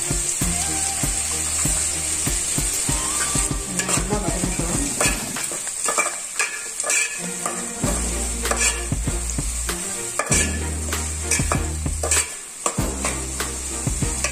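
Sliced shallots and garlic sizzling in sesame oil in an aluminium pot while being sautéed, with a steel spoon stirring them and clicking and scraping against the pot's sides many times.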